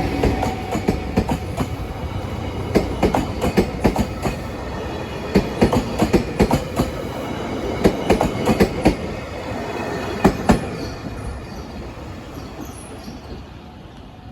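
A train passing close by, its wheels clacking over rail joints in quick groups of clicks, then fading as it moves away.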